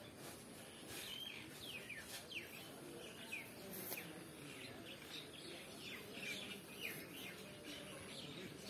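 Small birds chirping around: a steady run of short, falling chirps, several a second, some overlapping.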